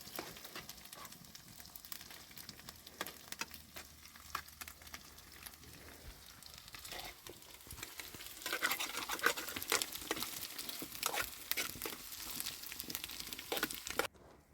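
Food sizzling and crackling as it fries in a pan, a dense patter of small pops that grows louder a little past halfway and cuts off abruptly near the end.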